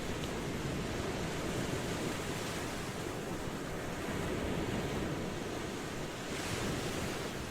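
Ocean waves washing in steadily, a continuous rushing surf with gentle swells, and one brighter hissing wash about six and a half seconds in.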